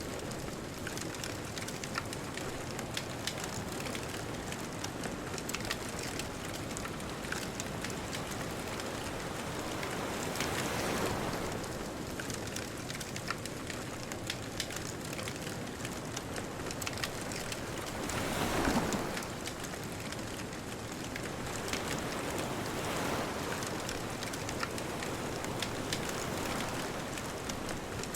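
Beach bonfire crackling with frequent small sharp pops over a steady hiss of distant surf. Waves swell up twice, the second one a little after halfway and the loudest.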